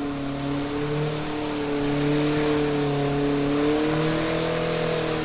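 A 1995 Mazda's Ford engine running at steady high revs, its pitch wavering slightly up and down.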